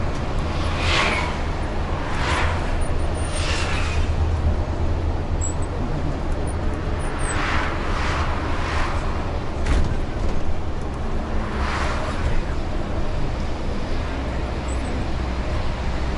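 A bus driving along, heard from inside as a steady low engine and road rumble. Short hissing whooshes come and go every few seconds over it.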